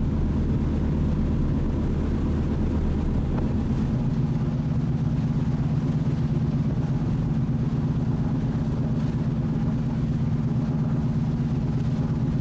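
Steady low drone of the ferry Pride of Burgundy's engines. About three and a half seconds in, the deepest hum fades and a slightly higher hum carries on.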